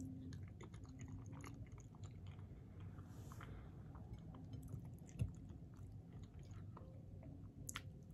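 Faint chewing and mouth sounds of a person eating a forkful of food, with small wet clicks throughout. There is a soft thump about five seconds in and a sharp click near the end.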